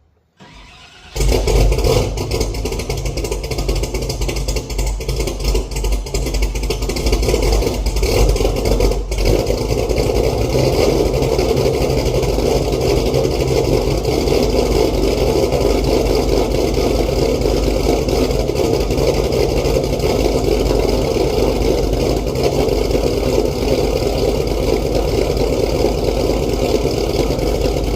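Pontiac GTO's ProCharger-supercharged V8 on a cold start: a brief crank, then it catches about a second in and settles into a steady, loud idle.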